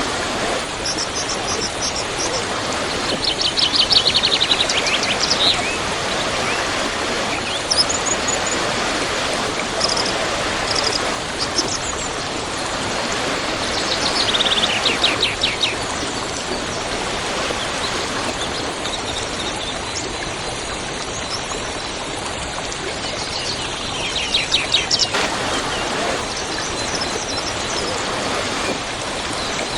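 Waterfall: a steady sound of falling water, with songbirds calling over it. A rapid trill of quick repeated notes comes three times, about 4, 15 and 25 seconds in, and short high chirps are scattered in between.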